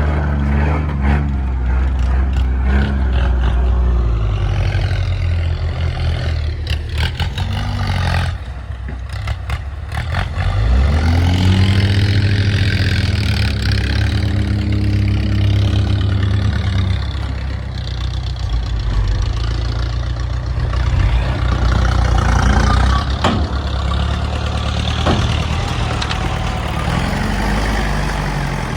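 Heavy diesel engine of earthmoving machinery running hard, revving up about ten seconds in and holding high revs for several seconds, with intermittent clatter.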